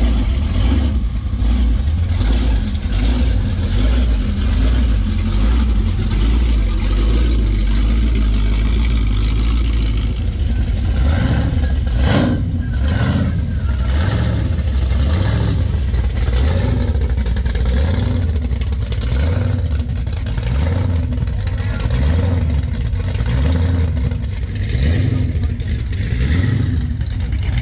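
Classic cars and hot rods driving by, their engines running with a low, steady note, amid the voices of a crowd.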